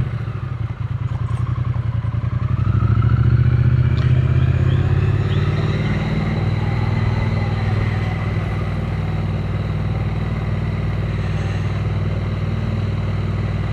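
Triumph Speed Twin 900's parallel-twin engine running as the bike rides along. It grows louder about two seconds in as it pulls, then settles to a steady note.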